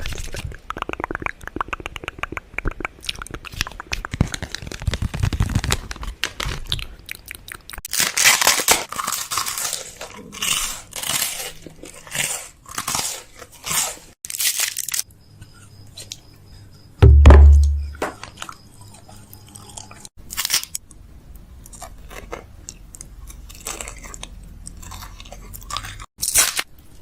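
Close-miked ASMR mouth sounds and tapping: a busy run of crisp clicks and short crunchy rustles, with one loud low thump about seventeen seconds in.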